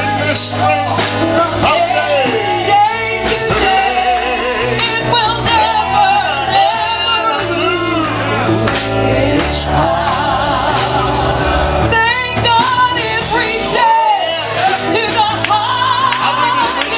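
Live gospel band music with a steady beat: drum hits, a bass line and a wavering lead melody with singing.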